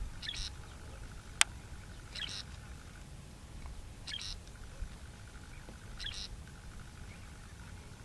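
A small bird repeating a short, high call about every two seconds, four times, over a low steady rumble. A single sharp click about one and a half seconds in.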